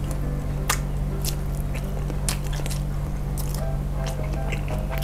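Wet mouth sounds of eating a mozzarella-stuffed meatball: slurping a strand of melted cheese and chewing, heard as scattered smacks and clicks. Steady background music runs underneath.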